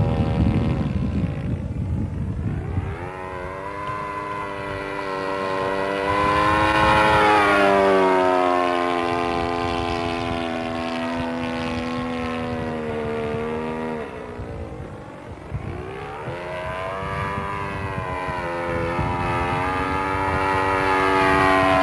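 Four-stroke engine of a 90-size RC model airplane (a Piper Cherokee sport model) running in flight. Its note slides up and down several times as the plane passes and the throttle changes, with a dip around the middle. A rushing rumble opens the first few seconds before the engine note comes through clearly.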